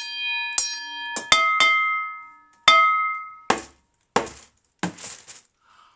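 A rhythm beaten on household items: a metal saucepan struck about six times, each hit ringing on, followed by four dull thumps on a cardboard box.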